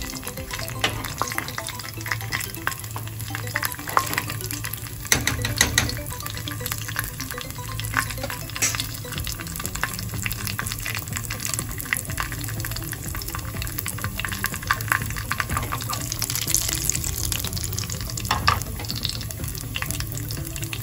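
Cashew nuts frying in hot ghee in a pan: a steady crackling sizzle of small pops, with a few louder clicks along the way.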